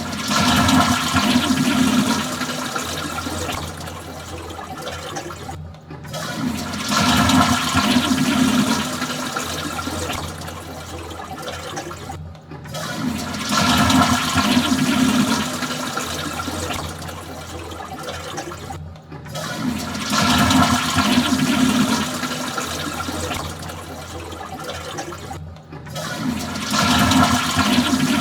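A toilet flushing, over and over: a new flush starts about every six and a half seconds, each with a loud rush of water that eases into a lower, steadier run of water before the next begins.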